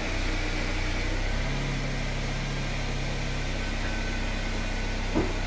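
Chevrolet Corsa's engine idling as the car creeps along at low speed, a steady low hum. Its low note grows a little stronger for a couple of seconds partway through.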